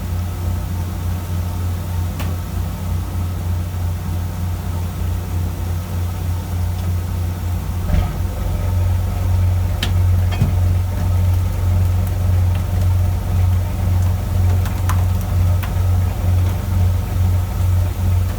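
Fishing boat's engine running steadily with an even low throb, growing a little louder about eight seconds in, with a few faint clicks and knocks on deck.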